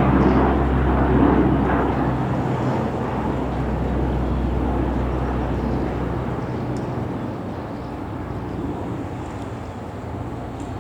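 Engines of a large Antonov cargo plane running with a low, steady drone, loud at first and fading as the aircraft moves away.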